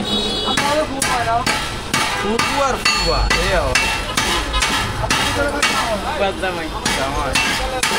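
Hammer blows on metal in a steady rhythm, about two to three strikes a second.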